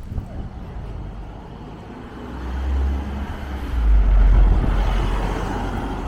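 Strong wind gusting across the microphone, a low rumbling buffet that swells about two seconds in and is loudest around the middle, easing but continuing to the end.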